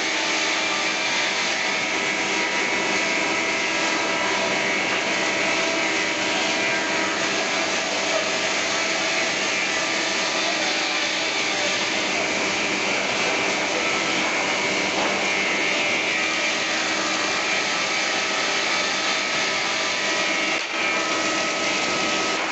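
QUADRO double-sided thickness planer running and planing wood: a steady dense hiss with several held whining tones over it, with a brief dip near the end.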